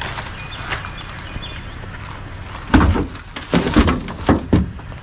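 A vehicle engine idles under a few faint chirps; about three seconds in, a run of about five loud, short sounds follows in quick succession.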